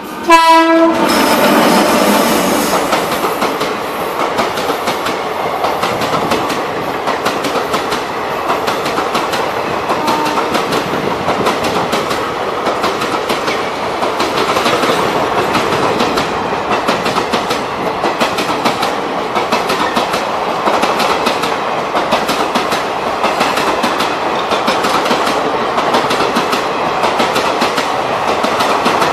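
An Indian Railways train sounds one short horn blast about half a second in. Then its wheels clatter steadily over the rail joints as it runs.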